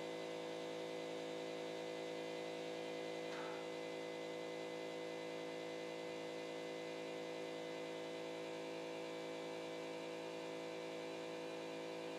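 Steady electric hum of a CNC pen-drawing machine's motors, a cluster of unchanging tones at a constant level.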